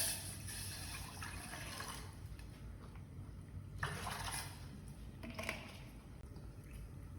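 Water pouring in short bursts: a long one of about two seconds at the start, then two shorter ones.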